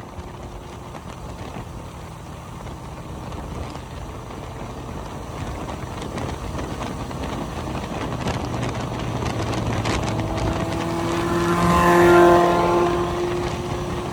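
Steady road and wind noise from travelling, with a motor vehicle's engine note growing louder from about eight seconds in. The vehicle passes close by about twelve seconds in, its pitch shifting as it goes past, and then fades.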